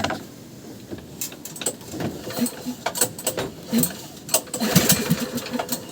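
Irregular metallic clicks, taps and knocks of tools and engine parts being handled during hand repair work on a boat engine, with a sharp click at the very start and brief muffled voices in between.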